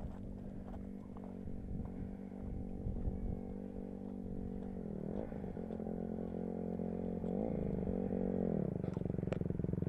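Small four-stroke gasoline dirt bike engine running at low revs, its pitch dipping briefly and recovering twice, about halfway through and again a few seconds later, and growing louder toward the end.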